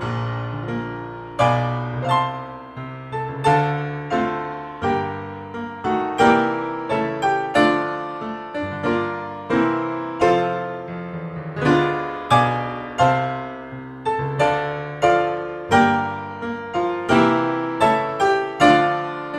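Background piano music: solo notes and chords struck at an even pace, each dying away before the next.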